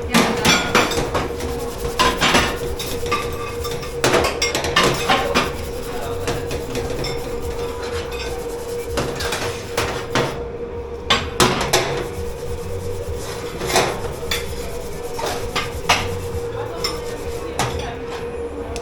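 Dishes, pots and cutlery clattering and clinking irregularly as they are handled and stacked during washing up, over a steady machine hum.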